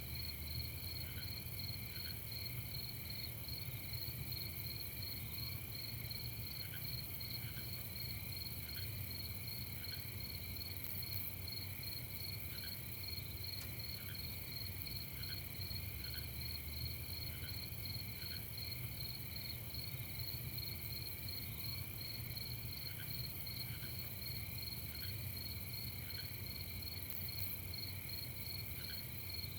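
A chorus of crickets trilling steadily at several pitches, the highest one rapidly pulsing. Underneath are a low steady rumble and occasional short soft notes.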